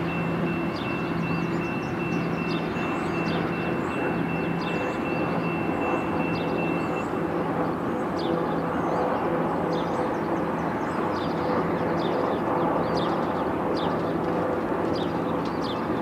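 Steady rumble of a VIA Rail passenger train running away into the distance, with birds chirping over it. A thin steady high tone stops about seven seconds in, and cars then drive over the level crossing.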